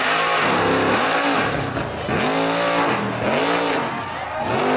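Drag-racing muscle car engines at full throttle as the cars launch into wheelstands, the engine pitch climbing and falling about four times in quick succession.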